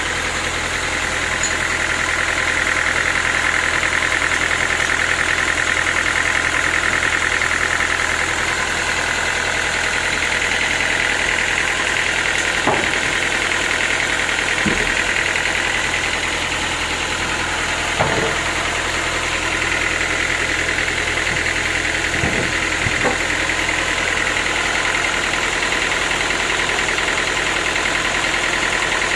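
Sawmill machinery running steadily: a motor drone with a high, even whine, and a few short knocks or clunks around the middle.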